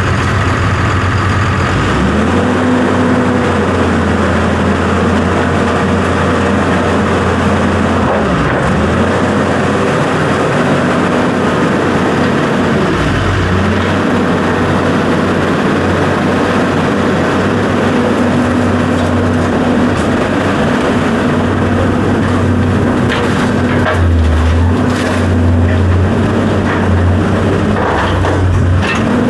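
A vehicle engine running steadily, its pitch shifting up and down several times, with a few brief knocks near the end.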